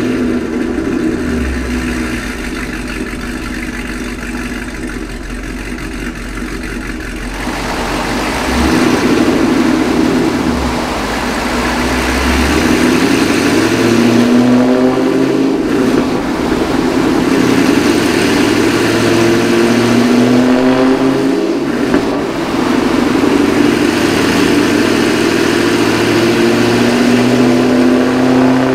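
2013 Camaro ZL1's supercharged 6.2-litre V8, breathing through a cold air intake and a CORSA Sport cat-back exhaust, run on a chassis dyno. It holds a steady low speed for about the first seven seconds. Then the revs climb in several rising sweeps with drops between them, and the last is a long pull near the end.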